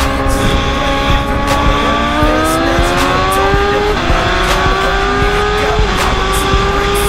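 Liter-class sport-bike engine pulling hard at highway speed. The revs climb, dip briefly about four seconds in as it shifts up, then climb again, over a heavy rushing noise.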